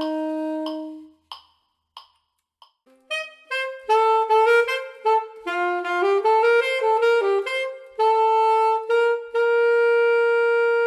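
Unaccompanied saxophone holding a note over metronome clicks at 92 beats per minute. The note stops about a second in, and a few more clicks follow. Then comes a quick run of notes and a long held final note.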